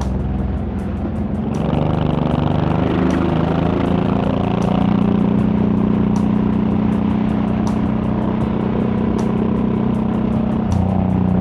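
Honda VTX1800's V-twin engine and exhaust under way on the road, pulling harder and rising in pitch about a second and a half in, then holding steady, with another change in engine note just before the end.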